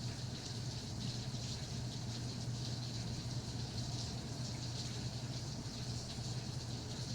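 Steady rain with many small drops pattering, over a low steady hum.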